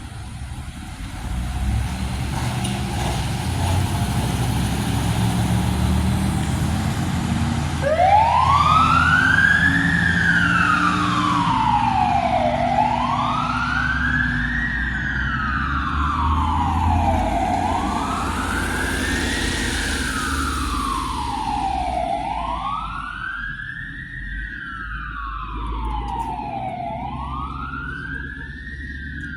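A heavy vehicle's engine rumbles, and about eight seconds in an emergency vehicle's siren starts a slow wail. The siren rises and falls evenly, roughly once every five seconds, for about five cycles.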